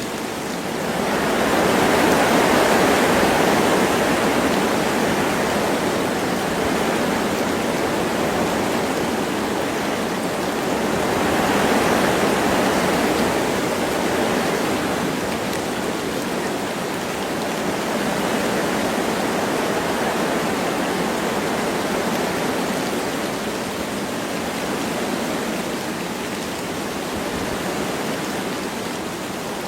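Wind blowing through forest trees over a steady hiss of light rain, swelling in a gust about two seconds in and again about twelve seconds in.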